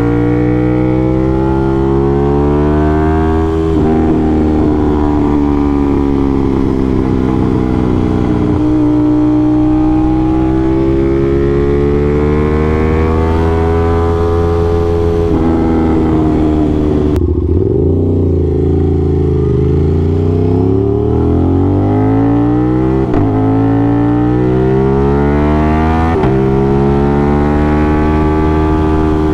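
Aprilia RS660's parallel-twin engine through an aftermarket SC Project CRT exhaust, pulling hard through the gears: the pitch climbs, then drops at each upshift, about 4, 9 and 15 seconds in. Around 17 seconds the throttle closes and the engine runs down on the overrun, with sharp blips near 23 and 26 seconds before it pulls again.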